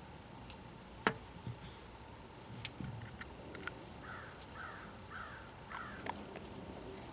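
Scattered clicks and light knocks of hand tools being picked up and handled, the loudest about a second in. About four seconds in come four short harsh calls in quick succession.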